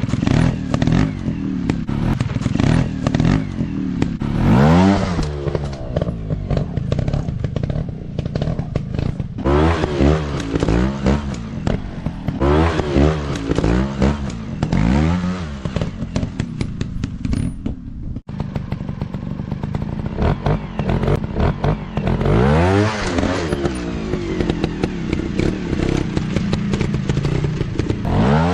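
Dirt bike engines running and revving over and over, the pitch climbing and falling with each throttle blip. Clattering and scraping run underneath, and the sound drops out for an instant about two-thirds of the way through.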